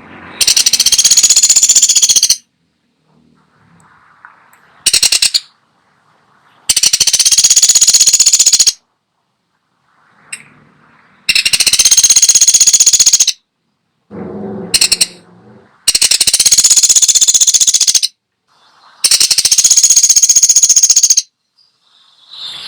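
Pelatuk sampit woodpecker giving a series of rapid, even, high rattling trills, each about two seconds long, about five in a row with short gaps and a few brief rattles in between.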